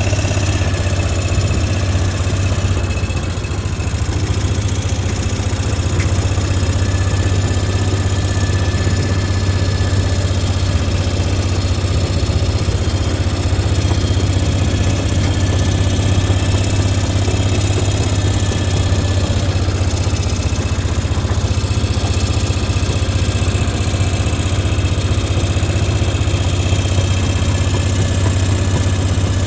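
A vehicle's engine running steadily with a strong low hum.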